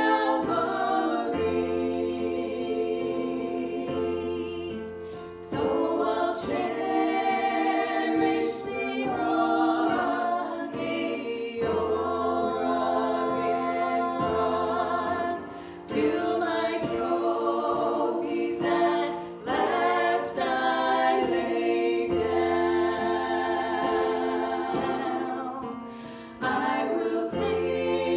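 Worship singing by a group of voices over sustained low accompanying notes, in phrases with brief dips between them.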